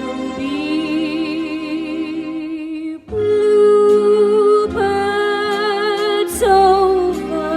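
A close-harmony vocal group singing long held notes with vibrato in a 1940s wartime song. There is a brief break about three seconds in, then the next chord.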